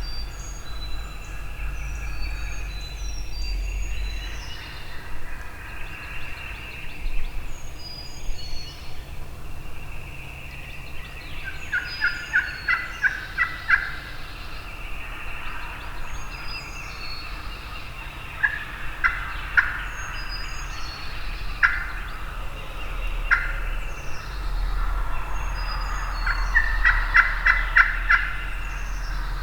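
Wild turkeys gobbling again and again through the woods. Runs of sharp, quick turkey yelps come about twelve seconds in and again near the end, and small birds chirp high above.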